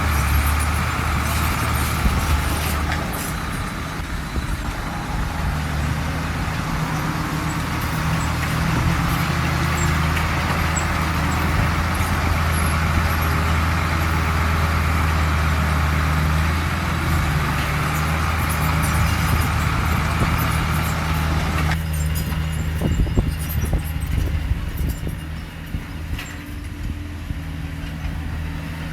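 Heavy diesel earthmoving machinery running under load: a steady low engine drone with knocks and rattles over it. The sound changes abruptly about 22 seconds in.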